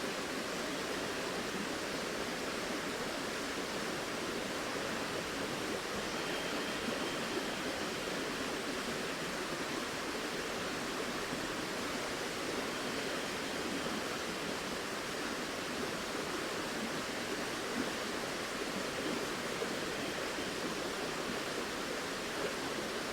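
A flowing river, its water rushing steadily with no change.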